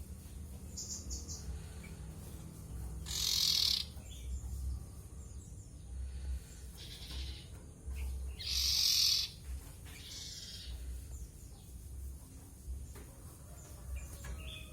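Common ioras (cipoh) giving short, harsh, hissing calls, the two loudest about three and eight seconds in, with a few faint high chirps near the start and a low hum underneath.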